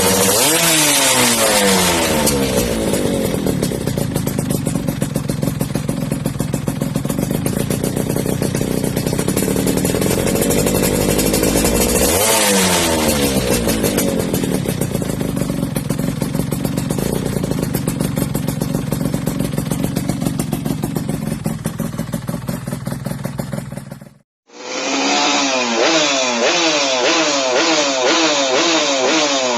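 Yamaha F1ZR's single-cylinder two-stroke engine revved through an RTX racing exhaust: sharp rev sweeps at the start and about twelve seconds in, held at steady revs in between. After a brief drop-out near the end, a run of quick rev blips follows.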